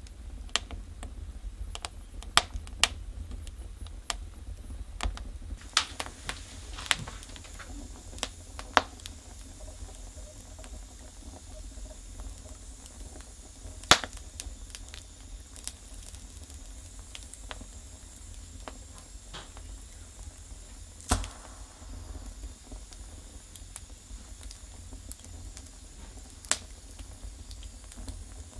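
Wood fire burning in a fireplace: irregular sharp crackles and pops of burning logs, thick in the first few seconds and sparser after, with the loudest snap about halfway through.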